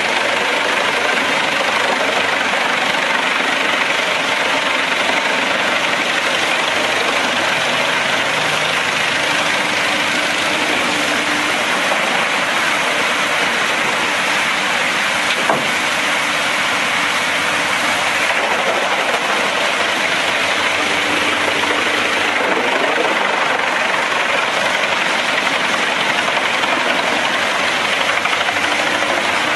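Wood chipper's engine running steadily, with one sharp knock about halfway through.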